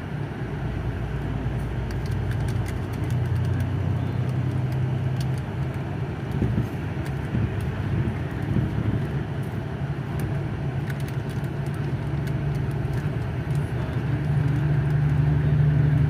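Truck engine running steadily, louder near the end.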